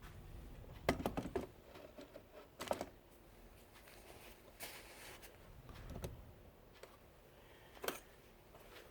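A few scattered sharp clicks and knocks, as of small objects being handled, with a quick cluster of them about a second in and single ones later.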